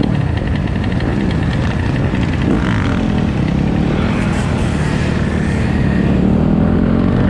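Several dirt bike and quad engines running together, their pitches rising and falling as they rev, with one engine climbing steadily near the end.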